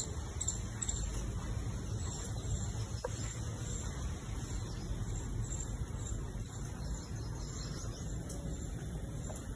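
Small birds chirping in short high notes, most in the first second and again near the end, over a steady low outdoor rumble.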